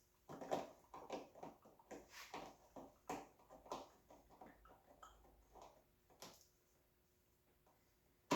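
Faint, irregular clicks and knocks of hand tools and parts being handled during disassembly. They die away about six seconds in, and one sharp click comes near the end.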